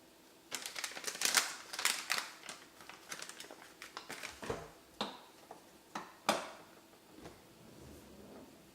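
Crinkling, rustling packaging and quick clicks as a dishwasher detergent pod is handled, followed by three or four separate sharp clicks, the loudest about six seconds in.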